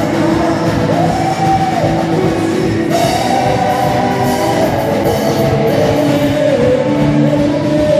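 Band music with electric guitar and drum kit, and a voice singing long held, gliding notes.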